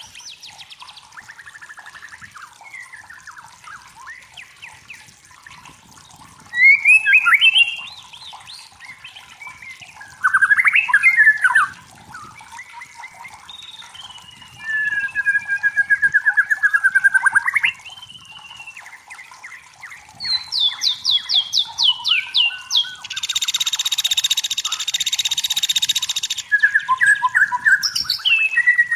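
White-rumped shama (murai batu) singing a run of varied phrases: clear whistles, falling trills and fast repeated chattering notes, with a harsh rasping burst lasting about three seconds near the end, over a faint steady hiss.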